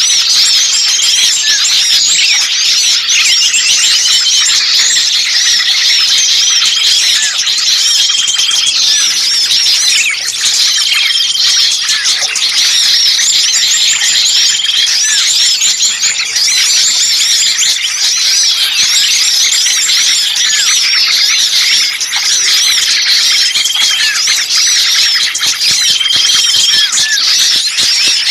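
Dense, noisy chorus of many small birds chirping and squeaking at once, a bird-lure recording of agitated small birds ("burcil ribut kejepit", small birds in an uproar as if caught) used to draw other birds in. Rapid high chirps run without a break, with a short flat whistle repeating every few seconds.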